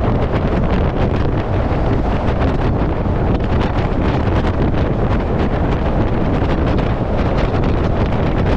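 Wind buffeting the microphone on a moving Scania 770S truck, a steady low rumble shot through with constant small crackles.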